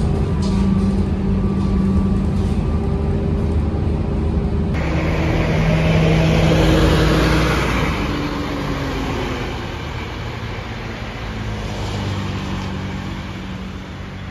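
Scania K230UB bus's five-cylinder diesel engine running. About five seconds in, a louder swell of engine and road noise rises, then fades gradually toward the end.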